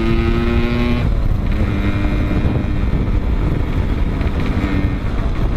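Suzuki Shogun motorcycle engine with an aftermarket exhaust, held at high revs under full throttle, then easing off about a second in. Wind noise on the microphone.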